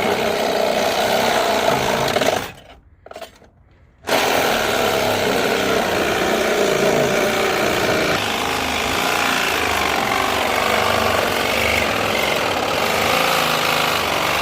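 Cordless power saw cutting metal. It stops briefly about two seconds in and starts again about four seconds in.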